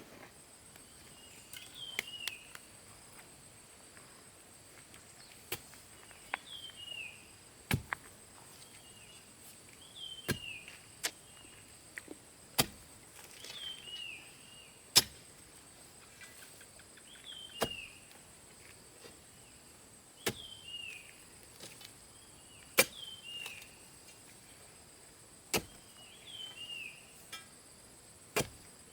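Sharp knocks of tool work on bamboo at irregular intervals, a second or two apart. A short falling chirp repeats every few seconds over a steady high insect drone.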